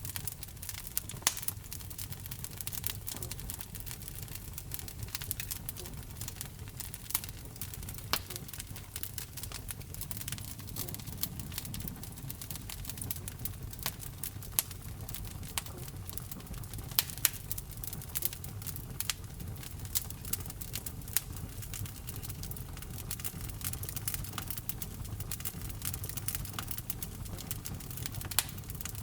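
Wood fire burning in a fireplace: constant sharp crackles and a few louder pops over a steady low rumble of the flames.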